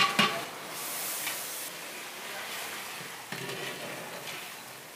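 Sizzling in a large aluminium biryani pot as freshly added tomatoes cook in the oil-and-onion masala, with a long metal ladle stirring; a louder hiss about a second in.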